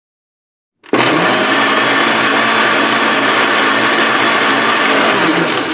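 Kitchen blender switched on about a second in, its motor running at a steady speed with a loud whirring. It begins to spin down at the very end.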